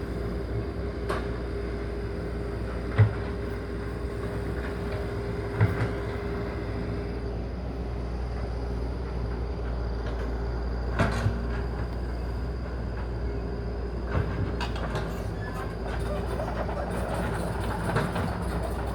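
Heavy machinery running steadily, a low rumble with a constant hum, broken by a few sharp metallic clanks.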